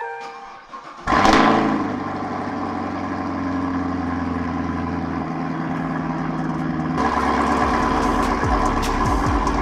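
Chevrolet Camaro SS 1LE's 6.2-litre V8 starting up with a loud rev flare about a second in, then settling into a steady idle.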